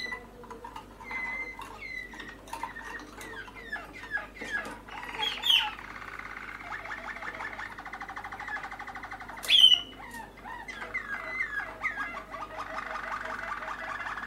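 Young Malinois (Waterslager) canaries calling: scattered chirps and long, fast rolling trills, with a sharp loud call about five and a half seconds in and another near ten seconds.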